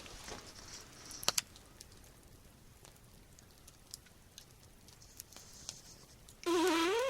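Small campfire crackling with scattered light pops, and two sharper pops about a second in. Near the end comes a short, loud vocal sound that rises in pitch.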